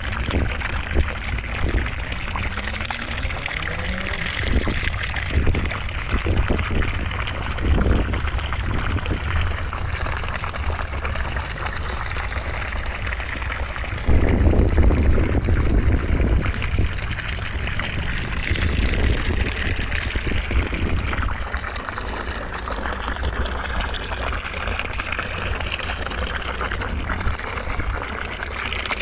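Continuous rushing white noise used for relaxation and sleep, with a slightly louder surge about halfway through that eases off a few seconds later.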